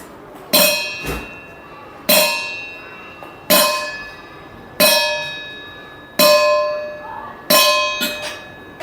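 A metal bell struck six times at an even pace, about one and a half seconds apart; each strike rings with several clear tones that fade before the next.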